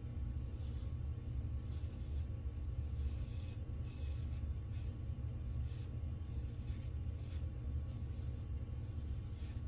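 Safety razor strokes scraping stubble through shaving lather on an across-the-grain pass: short, hissy scrapes, about one or two a second at an uneven pace. A steady low hum runs underneath.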